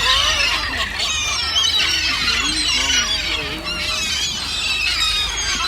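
A flock of birds calling over one another as they crowd in for bread, many high squealing calls overlapping with lower calls among them.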